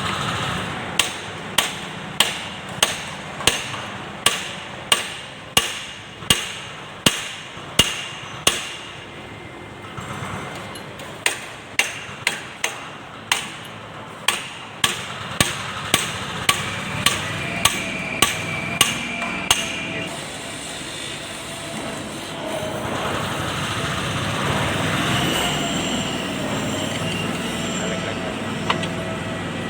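Hammer blows ringing on the steel of a Yanmar 2001D/2310 tractor's rear axle assembly, driving the axle out: two runs of about two strikes a second, with a short pause about ten seconds in. The strikes stop about twenty seconds in and a rougher steady noise follows.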